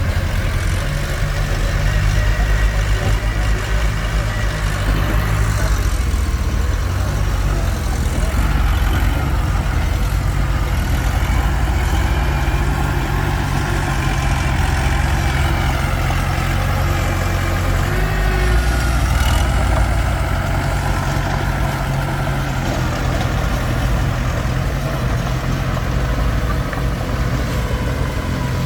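Komatsu D21P crawler bulldozer's diesel engine running steadily at working revs, with slight rises and falls in pitch.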